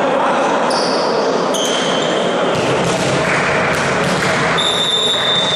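Indoor ball game in a sports hall: ball bouncing on the court with short high squeaks, over a steady din of voices echoing in the hall.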